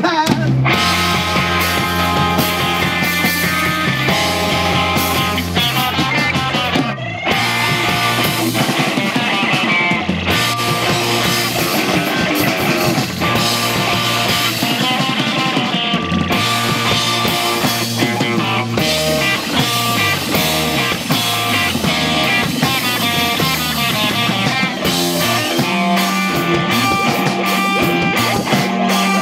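A rock band playing live with electric guitar, bass and drum kit, in an instrumental passage with no singing.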